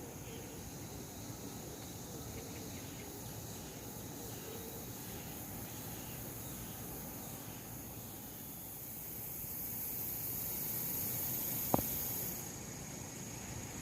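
Grass insects such as crickets singing in a steady, high-pitched chorus. An even higher trill swells in about two-thirds of the way through and cuts off suddenly near the end, with one sharp click just before it stops.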